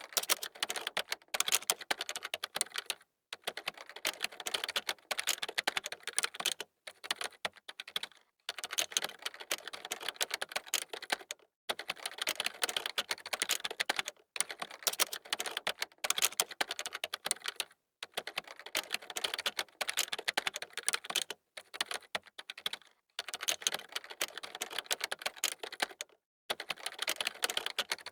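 Fast typing on a computer keyboard: rapid runs of key clicks broken by brief pauses every second or two.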